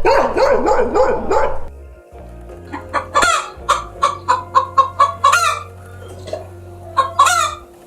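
Chickens clucking and cackling in a run of short, sharp calls, with another loud call near the end, over a steady music bed. The first second and a half holds a different animal's calls, the tail of the segment before.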